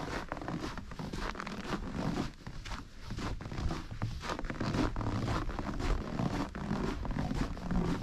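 Footsteps crunching in a quick, irregular run of scrapes, over a steady low rumble.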